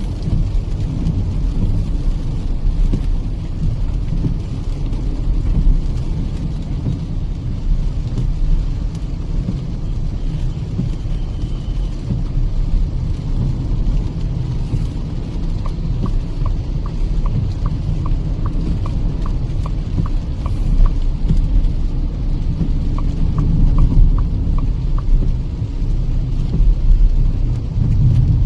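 Steady low rumble of road and tyre noise and the petrol engine of a Kia Seltos on a wet highway, heard from inside the cabin. A run of light, evenly spaced ticks, about two or three a second, comes a little past the middle and again near the end.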